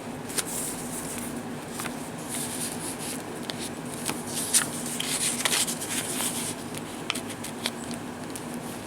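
Paper rustling and crinkling as the pages, tags and envelopes of a handmade paper journal are handled and turned, in short irregular bursts over a steady low hum.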